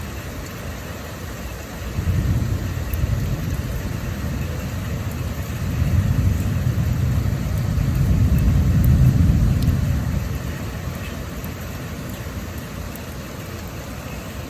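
Storm wind gusting, a low rumble that swells about two seconds in and again in the middle before easing, over a steady faint hiss of heavy rain.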